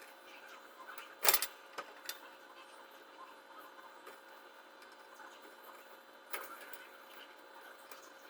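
A sharp knock just over a second in, a few lighter clicks after it and another knock about six seconds in, over a faint steady hum.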